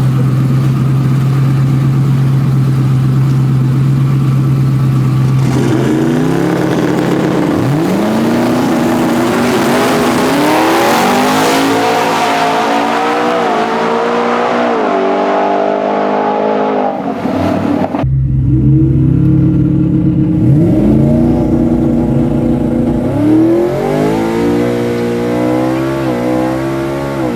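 Twin-turbo 5.0 Coyote V8 of an F-150 drag truck held at a steady note, then launching, its pitch climbing and dropping through only a few shifts. The automatic transmission is skipping gears, which the crew takes for a probable valve body problem. About two-thirds of the way through, the sound cuts off abruptly and the same steady note and launch are heard again.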